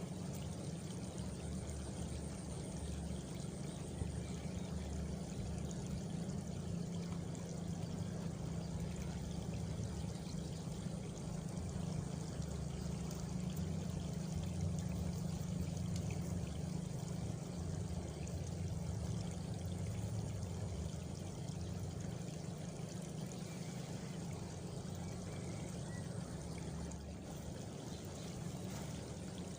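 Steady rush of flowing water, heaviest in the low end, as of a stream or channel running through countryside.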